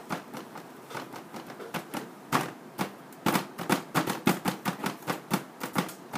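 A toddler chewing cake with his mouth open, making irregular wet lip smacks and clicks that come much faster from about halfway through.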